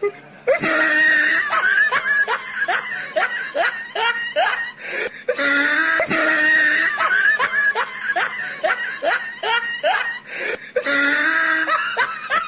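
Hearty human laughter, a fast run of ha-ha-ha going on and on, with short breaks about five and eleven seconds in.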